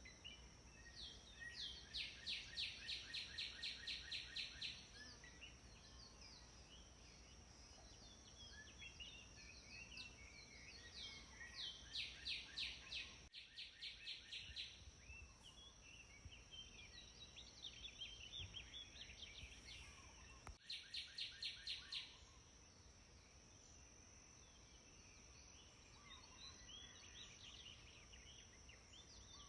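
Songbirds singing outdoors: three runs of rapid repeated notes, about five a second, each lasting a few seconds, with scattered chirps between them, over a steady high-pitched whine.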